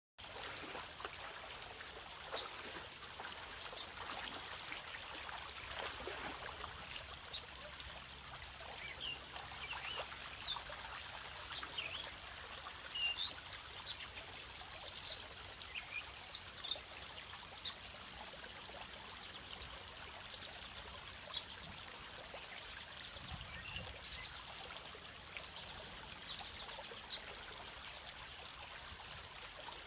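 A creek flowing and trickling: a steady rush of water with many small, quick high plinks and gurgles.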